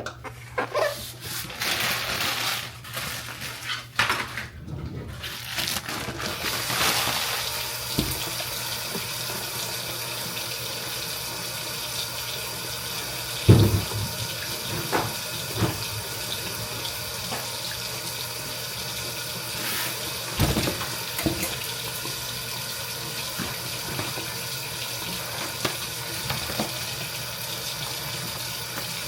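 Kitchen tap running steadily into a sink, with a few knocks of something being handled under the water.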